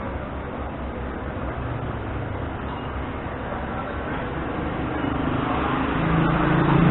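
Busy street traffic rumbling. Near the end, a vehicle engine close by gets steadily louder.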